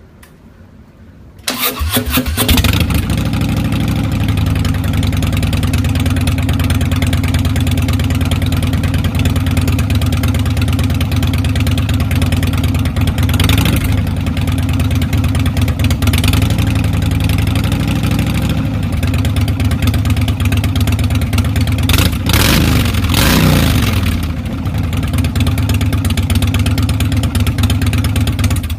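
Harley-Davidson Dyna Street Bob V-twin, through a stock exhaust cut 5 inches shorter with Thunder Torque inserts, started after about a second and a half, idling loudly with a few quick throttle blips, then cut off at the end.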